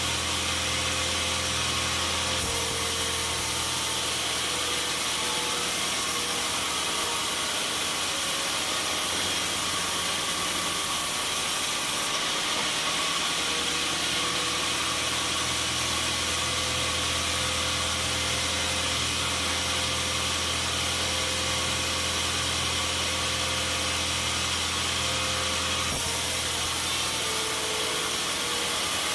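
Sawmill machinery running steadily: a constant mechanical hum under an even hiss, with no pauses or strokes.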